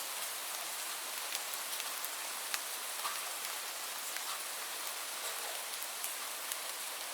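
Steady rainfall: an even hiss with scattered sharper drop ticks landing here and there.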